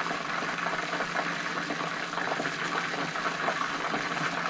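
Chicken wings cooking in a pot on the stove, a steady bubbling crackle, over a faint steady low hum.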